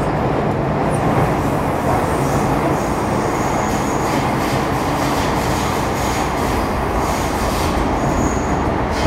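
Steady running noise heard from inside a Metro Cammell M-Train (CT-stock) electric multiple unit travelling at speed: wheels rumbling on the rails, with faint brief high-pitched wheel squeals twice, a few seconds in and near the end.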